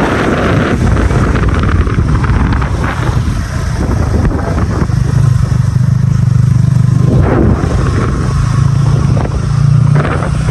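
Motorcycle engine running while under way, with wind rushing over the microphone; a steady engine note comes up about halfway through.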